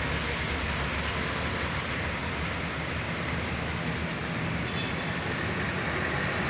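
Heavy truck engine running steadily with a low drone, mixed with tyre and road noise.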